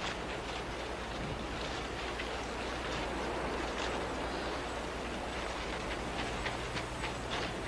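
Rainforest ambience: a steady hiss with scattered short, high clicks and a faint low hum underneath.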